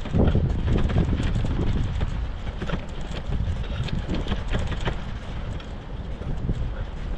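Bicycle riding through snow: irregular crunches and rattling clicks under a heavy low rumble of wind on the microphone.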